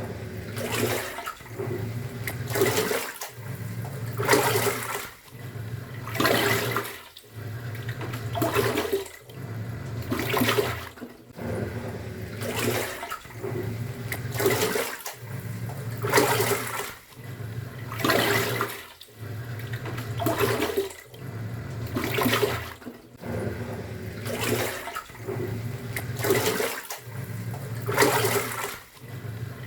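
Top-loading pulsator washing machine in its wash cycle, churning water in regular surges with a low motor hum under it. It pauses briefly about every two seconds as the pulsator changes direction.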